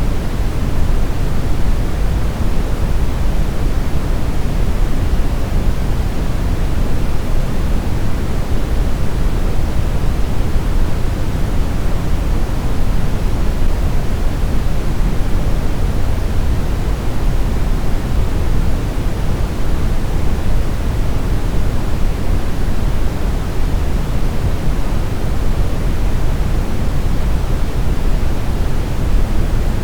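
Continuous brown noise: a steady, deep rumbling hiss with its energy heaviest in the low end, unchanging throughout.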